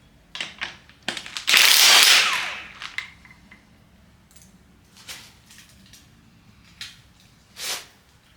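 Impact wrench run in one short burst of about a second on a connecting rod cap bolt, with scattered sharp metal clicks and clinks of tools and parts being handled before and after.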